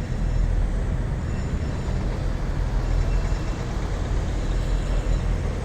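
Vehicles driving off a ferry one after another, making a steady low engine and road rumble.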